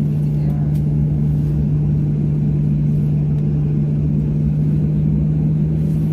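Steady engine drone with a constant low hum and rumble that does not change in pitch or level.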